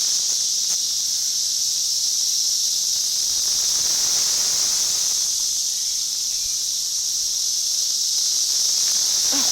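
Dense chorus of Brood X periodical cicadas: a loud, steady, high-pitched drone with no break, described as screaming.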